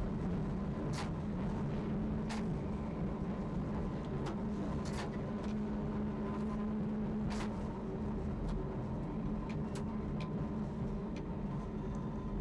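London Underground A Stock train running, heard from the driver's cab: a steady low rumble with a faint steady whine, broken by sharp clicks at irregular intervals.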